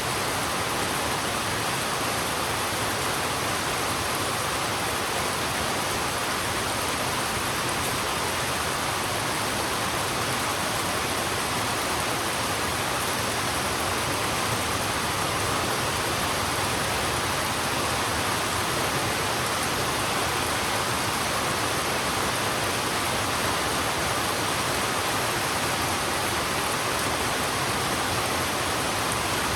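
Heavy rain falling steadily, an even, unbroken hiss with no single drops or other events standing out.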